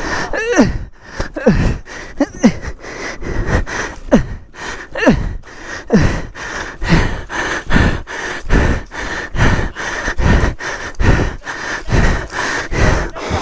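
A person breathing hard and panting, about one loud exhalation a second, each falling in pitch. A faint steady high whine runs underneath.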